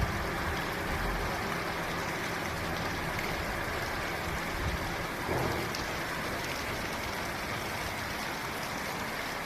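Steady rain falling, an even hiss of drops on a hard surface.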